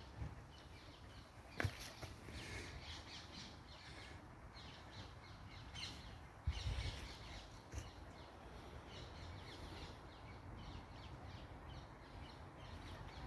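Quiet outdoor ambience with birds calling in short repeated notes throughout. A sharp click about a second and a half in and a low thump about six and a half seconds in.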